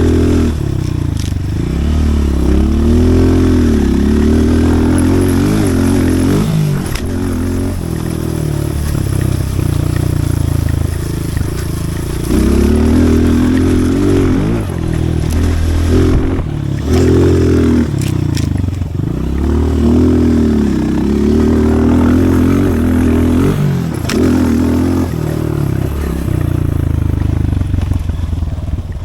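Pit bike engine revving up and falling off again and again as the bike is ridden around a dirt loop, with short drops in revs a few times as the throttle is closed.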